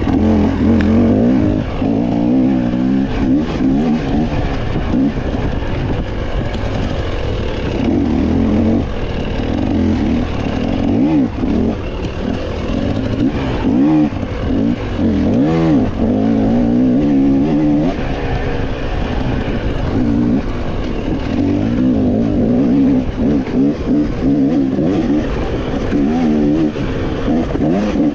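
Off-road dirt bike engine revving up and down again and again as the rider accelerates and backs off through a fast woods trail.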